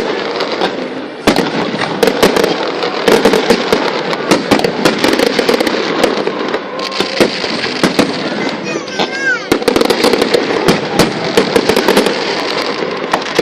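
Aerial fireworks going off in a dense, rapid string of bangs and crackles. A short whistling glide rises and falls about nine seconds in.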